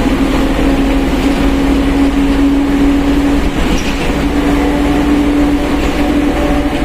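Mercedes-Benz OF 1721 BlueTec 5 bus under way, its differential whining in a steady tone over engine and road rumble; the whine breaks off briefly about halfway and comes back slightly higher.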